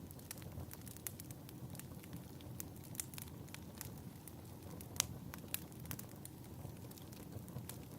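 Fireplace crackling: a steady low rumble of burning wood with irregular sharp pops and snaps, one louder pop about five seconds in.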